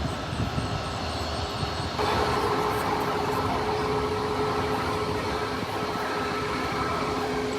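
Jet airliner engine noise, a steady rumbling rush. About two seconds in it changes abruptly to a louder rush with a steady whine over it.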